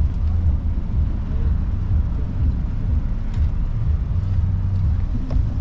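Steady low rumble of wind buffeting the microphone and road noise while riding a bicycle.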